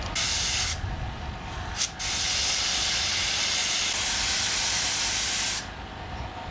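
Hand-held compressed-air blast gun firing in hissing bursts: a short blast near the start, a very brief one just before two seconds in, then a long steady blast of about three and a half seconds that cuts off suddenly. A steady low hum runs underneath.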